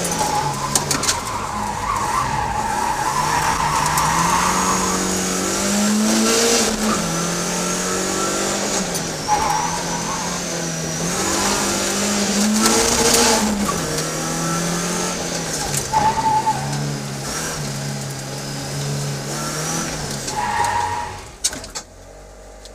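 BMW 318is (E30) four-cylinder engine heard from inside the cabin during a rally sprint run, its note rising and falling several times and settling lower as the car slows, with a few short squeals. The sound drops away near the end.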